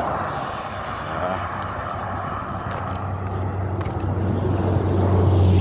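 A motor vehicle on the road, its low engine hum and tyre noise growing louder toward the end as it approaches.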